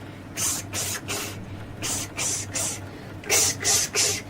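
A voice repeating the hissed "ks" sound of the letter X in quick sets of three, about nine times in all, as a phonics drill.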